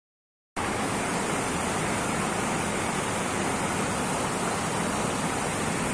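Steady rush of water, cutting in abruptly about half a second in after dead silence.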